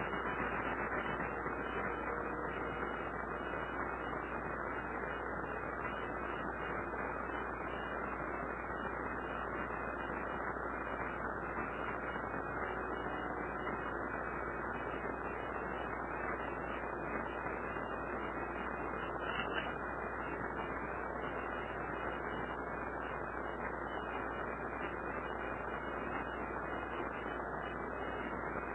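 Steady background hiss and hum with no distinct events, apart from one brief faint tick about two-thirds of the way through.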